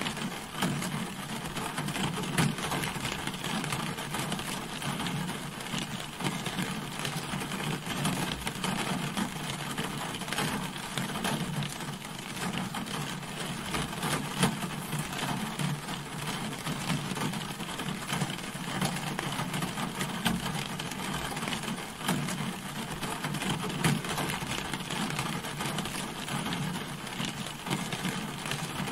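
Rain falling steadily on a car, a dense, even patter of many small drop taps.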